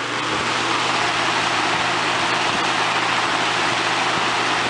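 1996–97 Lasko 3723 box fan running on high: a steady rush of air over a low electric-motor hum. It grows a little louder in the first second as the motor comes up to its high speed.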